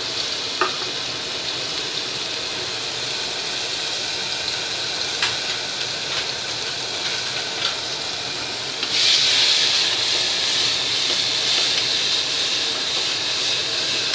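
Crushed small onions and dried red chillies sizzling in smoking-hot gingelly (sesame) oil in the open base of a pressure cooker, with a few light clicks. About nine seconds in, the sizzle suddenly gets louder and stays that way.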